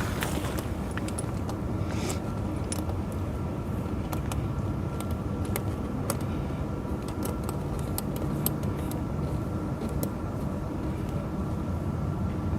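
Tractor engine idling steadily, with scattered light clinks of snow-chain links being handled.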